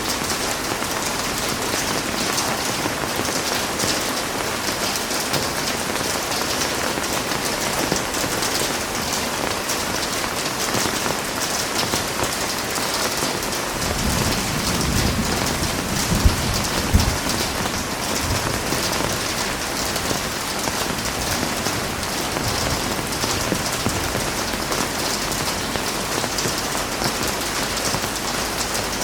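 Heavy rain falling steadily, with a low rumble of thunder about halfway through that lasts around three seconds.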